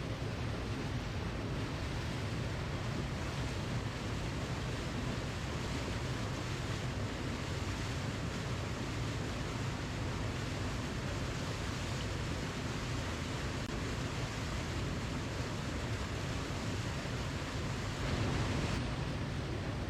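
Steady rushing of a waterfall, an even wash of falling water with no breaks, swelling slightly louder near the end.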